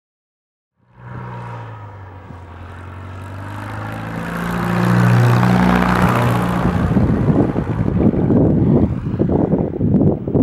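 Cessna 150 light plane with its four-cylinder engine and propeller, approaching low overhead to land. The drone starts about a second in and grows louder with sweeping pitch shifts as it passes. Wind buffeting the microphone takes over in the second half.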